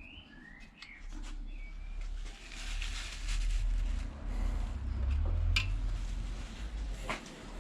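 Workshop handling noise from loose engine parts, with rustling and a couple of sharp metallic clicks, over a steady low hum. A few short rising chirps come in the first second or so.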